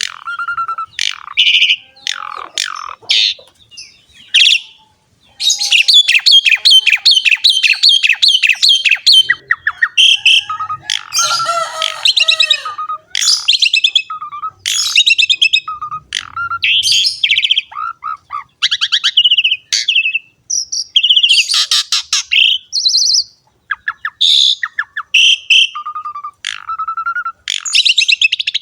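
Asian pied starling (jalak suren) singing a continuous, varied song of whistles and harsh chatters, with a long fast series of repeated notes a few seconds in.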